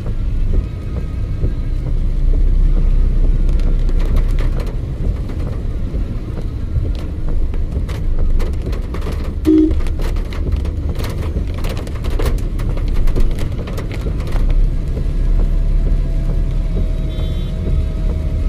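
Road traffic on a wet road: vehicles running with a steady low rumble, with a scatter of sharp clicks in the middle.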